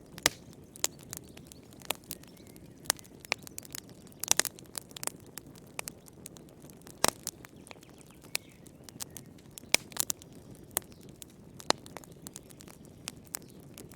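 Wood fire burning in a fireplace: irregular sharp crackles and pops over a low steady hiss of the flames, with a small cluster of pops about four seconds in.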